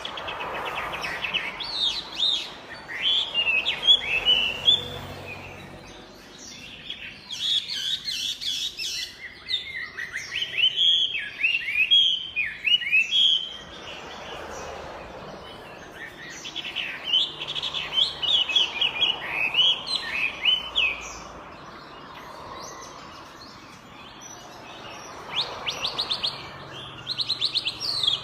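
Chinese hwamei singing: bouts of fast, varied whistled phrases with rising and falling notes, broken by short pauses of a few seconds.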